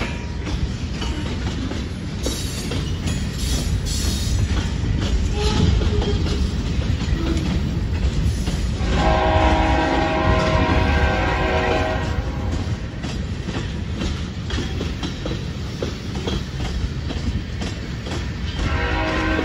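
Freight train cars rolling past close by: a steady low rumble of wheels on rail with clickety-clack over the joints. Near the middle a distant train horn chord sounds for about three seconds, and it starts again at the very end.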